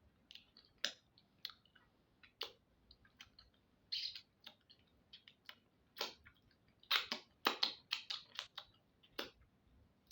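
A person eating akpu (cassava fufu) with soup: a string of short, wet mouth clicks and smacks from chewing and lips, coming thickest from about seven to eight and a half seconds in.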